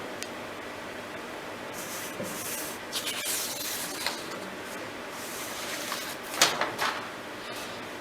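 Faint rubbing and rustling noises over a low room hiss, with a few soft scrapes about two, three, four and six and a half seconds in.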